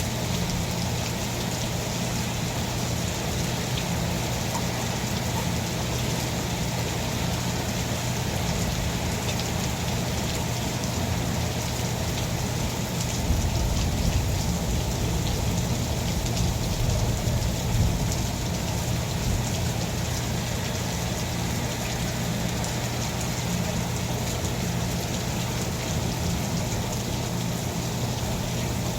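Steady rain falling, over a constant low hum. A low rumble swells for a few seconds around the middle, then fades back into the rain.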